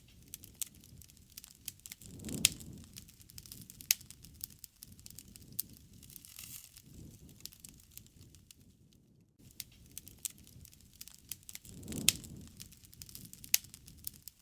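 Wood fire crackling, with sharp pops and snaps scattered throughout over a low rustle of flame that swells about two seconds in and again near twelve seconds.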